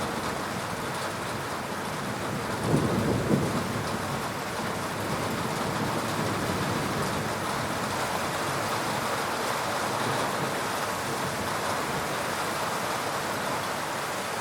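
Steady heavy rain hissing throughout, with a low thunder rumble swelling about three seconds in.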